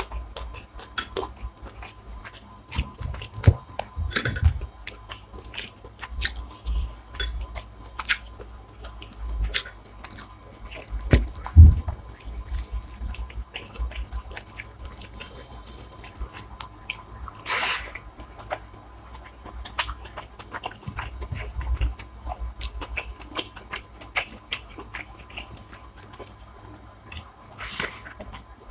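Close-miked chewing and biting of a hilsa fish biryani meal: many small wet mouth clicks and irregular low bites, with the loudest bite about twelve seconds in.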